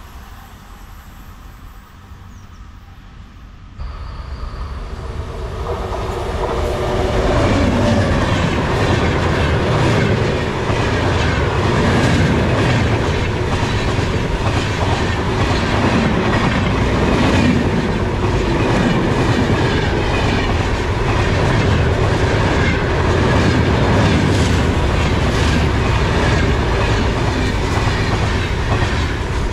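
Indian Railways electric train approaching and passing close by: quiet at first, it grows louder from about four seconds in and then runs past steadily, its wheels clattering over the rail joints.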